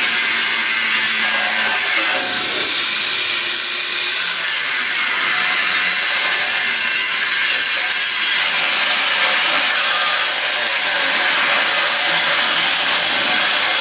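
Power tool grinding metal, running steadily with a high hiss. About two seconds in it briefly drops off, then winds back up with a rising whine and runs on.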